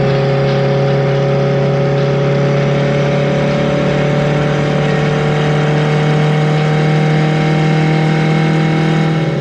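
Honda Civic's engine pulling steadily while the car drives, a loud even drone that rises slowly in pitch and dips slightly near the end.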